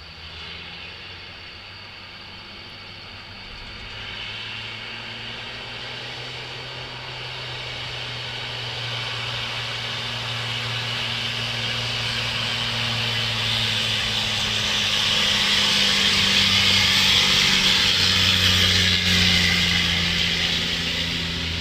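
Loaded dump truck coming down a steep descent: the diesel engine runs low and steady under a loud rushing brake noise that grows as the truck comes closer, is loudest about three-quarters through, then eases a little.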